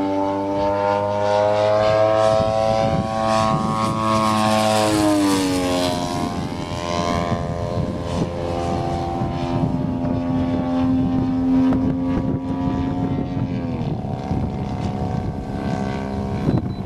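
Propeller engine of a 1/3-scale radio-controlled Cessna 182 model droning in flight. Its pitch slides down about five seconds in as it passes by, then drops again near fourteen seconds.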